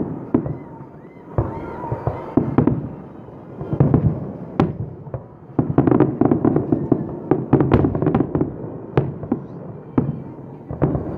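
Aerial firework shells bursting in a rapid, irregular string of bangs and crackles. The bursts come thicker and louder in the second half.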